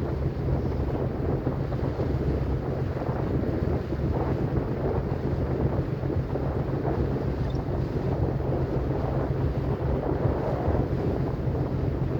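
Ferry boat's engine running with a steady low hum, under wind noise on the microphone.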